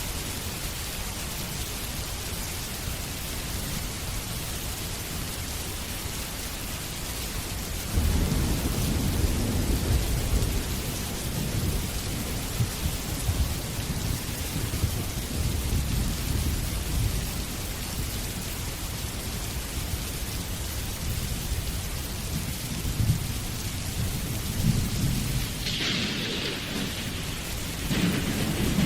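Steady rain with a thunderstorm. About eight seconds in, a long low rolling rumble of thunder starts and goes on for much of the rest. Another swell comes near the end.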